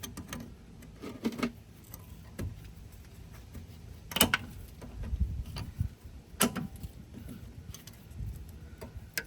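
A few scattered clicks and knocks of hands and tools working loose the power steering hose lines in an engine bay, with a faint low rumble between them.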